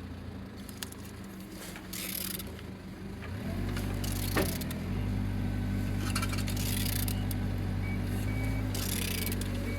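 Renault K9K 1.5 dCi diesel engine being turned over on the stand to check that it rotates freely. Before that there are light clicks and scraping. A steady low mechanical hum starts about three and a half seconds in and keeps going to the end, with a sharp click soon after it begins.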